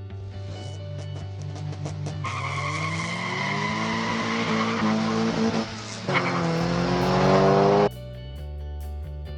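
A race-car engine sound effect, added to the run of an engineless 1/64 diecast car, revs up, drops once as if through a gear change, climbs again and cuts off abruptly near the end. Background music plays throughout, with quick clicking in the first two seconds.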